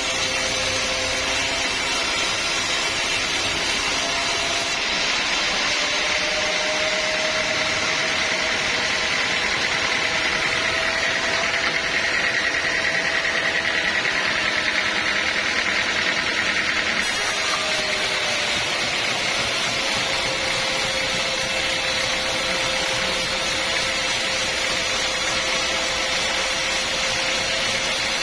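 Sawmill saw running steadily through a teak log, a continuous machine drone with a whine whose pitch drifts slightly and grows brighter for a few seconds in the middle.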